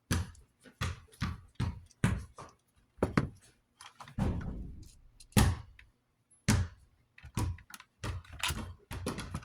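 A string of irregular knocks and thunks, a dozen or more, from the parts of a box fan's shaded-pole motor being handled and knocked during disassembly; one is louder than the rest a little past the middle.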